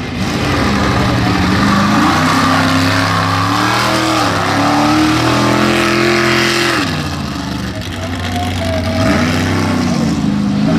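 Mega truck engine revving hard under load in a mud pit, its pitch climbing and falling repeatedly. It eases off about two-thirds of the way through, then builds again.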